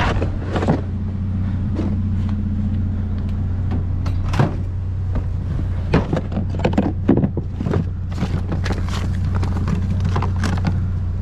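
Scattered knocks and clatter of junk being handled and shifted while rummaging through a dumpster, busiest around the middle, over a steady low drone.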